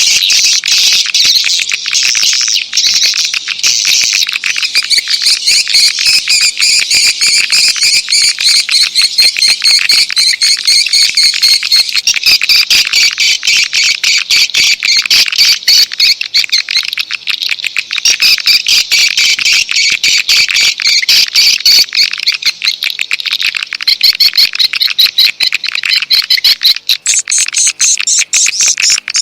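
Swiftlet lure call recording: dense, rapid chirping and clicking, high-pitched and continuous, the kind of calling sound played to draw swiftlets in.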